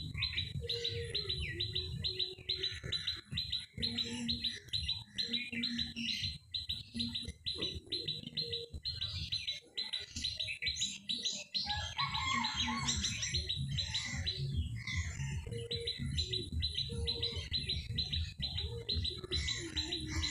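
Small birds chirping rapidly and continuously, several short chirps a second, over a low rumble.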